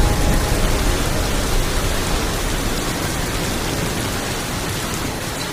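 Steady rain falling as an even hiss, slowly fading out.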